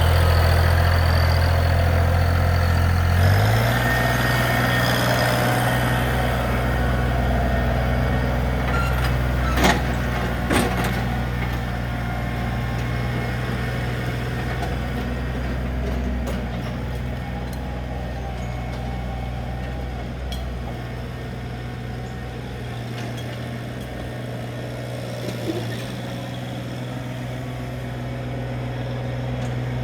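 John Deere 3025E compact tractor's three-cylinder diesel engine running steadily. About three seconds in it is throttled up to a higher, steady speed as the tractor is driven to test the repaired hydrostatic forward/reverse pedal linkage. Two short knocks come about ten seconds in.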